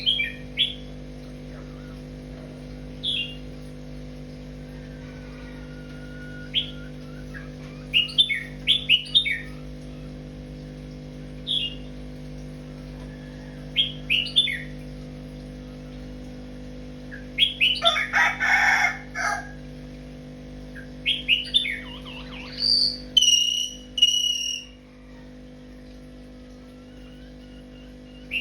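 Birds chirping in short scattered calls, with a louder, harsher call about eighteen seconds in and a longer clear call a few seconds later, over a steady low hum.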